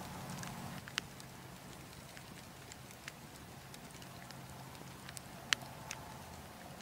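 Wood fire crackling: scattered sharp pops and snaps, the loudest about five and a half seconds in, over a soft steady hiss and a low hum.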